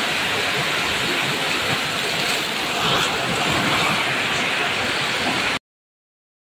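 Heavy rain falling, a steady dense hiss, which cuts off abruptly into silence about five and a half seconds in.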